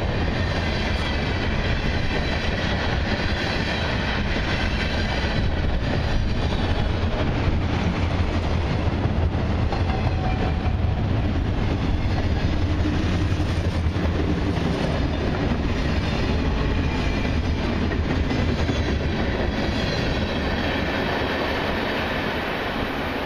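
Freight train cars, tank cars and then a covered hopper and boxcars, rolling past in a steady rumble and clatter of steel wheels on rail. The sound eases off near the end as the last car clears.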